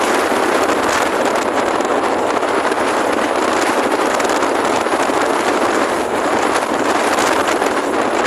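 Steady rush of wind buffeting the microphone of a rider on a moving motor scooter, drowning out the engine.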